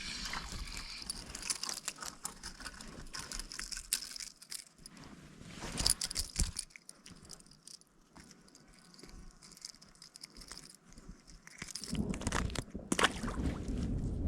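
Footsteps through forest undergrowth: irregular crackling and snapping of twigs and dry debris with rustling, the loudest snap about six seconds in. About two seconds before the end, a low rumbling noise begins and keeps going.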